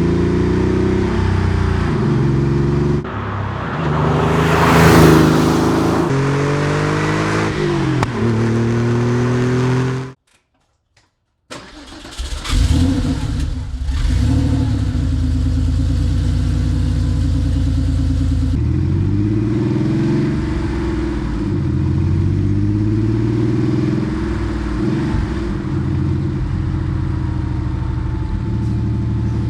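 Porsche 964 Carrera 2's air-cooled 3.6-litre flat-six through a centre straight-through muffler, revving up and down for about ten seconds. After a second of silence the engine is started, flares in revs and settles into a steady idle with a few blips of the throttle.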